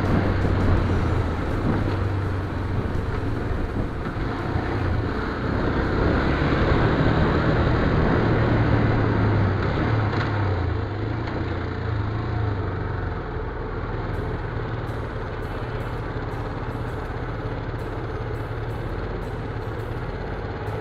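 Motorcycle engine running steadily under a rush of wind and road noise, as heard while riding; the sound eases somewhat about two-thirds of the way through.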